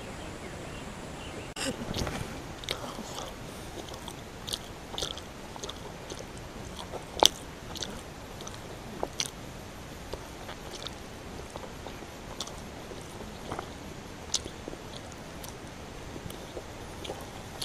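A person chewing and eating cooked paco fish picked apart by hand, with scattered small clicks and mouth smacks, one louder click about seven seconds in.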